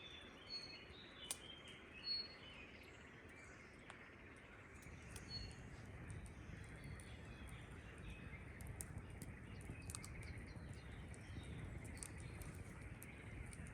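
Faint forest ambience: small birds chirping in short high notes, mostly in the first couple of seconds, over a low, steady background rumble that grows a little louder about five seconds in.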